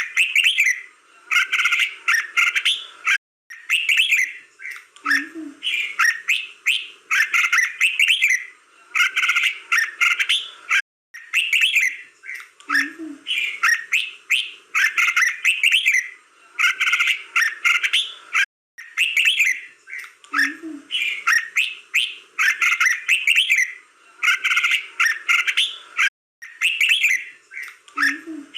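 Red-whiskered bulbul singing: quick, bubbling whistled phrases given one after another, with no pause. The same stretch of song repeats about every eight seconds, broken by a brief cut each time.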